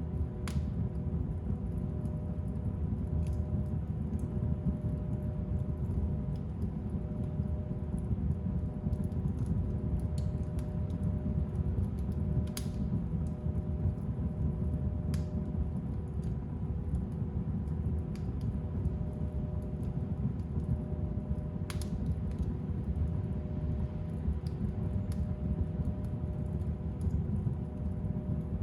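Fire burning in a fireplace: a steady low rush from the flames with scattered crackles and pops every few seconds.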